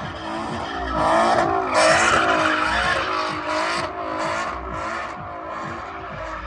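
A car drifting: its engine revving while the tyres squeal and skid, in repeated surges, the loudest about a second in.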